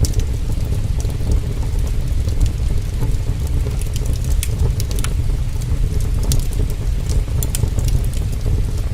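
Heavy rain falling as a steady low rumble, with a wood fire crackling over it in scattered sharp pops.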